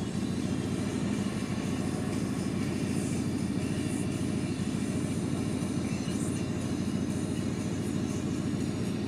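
Turbo-diesel farm tractor engine running, a dense steady low rumble with no clear rise or fall in pitch.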